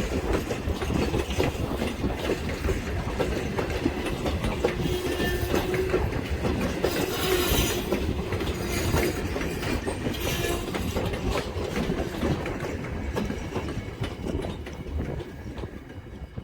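A steam-hauled passenger train rolling past, its wheels clicking steadily over the rail joints, then fading away over the last few seconds.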